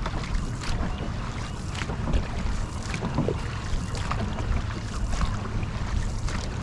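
Dragon boat paddles dipping and splashing in repeated strokes, with water rushing along the hull. Wind rumbles on the microphone throughout.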